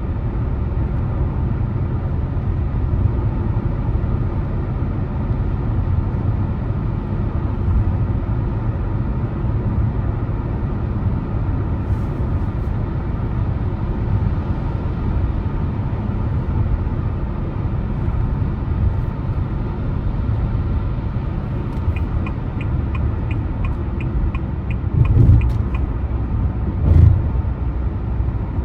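Car driving on the road: a steady low rumble of road and engine noise. Near the end, a quick regular ticking of about four ticks a second for a few seconds, then two low thumps.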